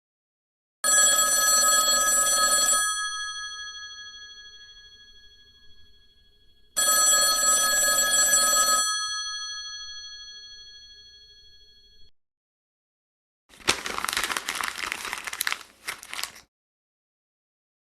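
Old-style telephone bell ringing twice, each ring about two seconds long and lingering as it dies away, with four seconds between rings. Near the end comes a separate burst of rough noise lasting about three seconds.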